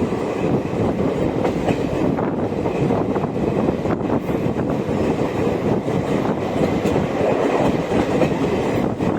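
Passenger express train running at speed: a steady rumble of wheels on rail with scattered short clicks as the wheels pass over rail joints.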